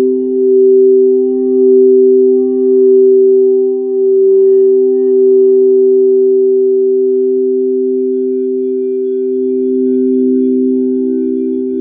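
Singing bowls ringing with two sustained, overlapping tones, swelling and fading about once a second in the first half, then holding steady.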